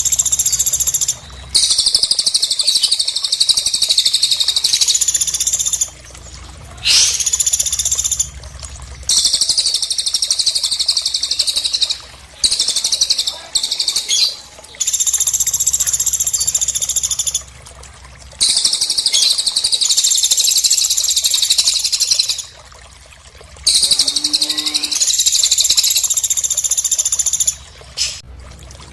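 Cililin and pelatuk bird song layered as a masteran training track: long runs of rapid, high-pitched chattering trills, each lasting a few seconds, broken by short pauses.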